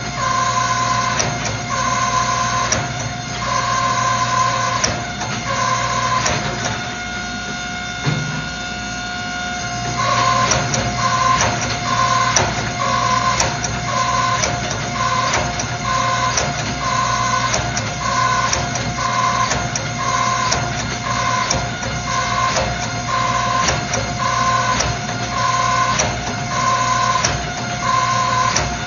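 Steady hum of shop machinery, most likely the running hydraulic forging press, with a regular high-pitched beep about once a second that stops for a few seconds around the middle.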